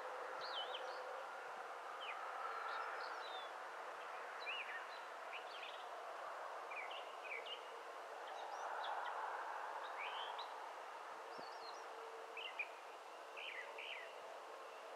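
Several birds singing and calling, short chirps and warbling phrases scattered throughout, over a steady background hiss of outdoor noise.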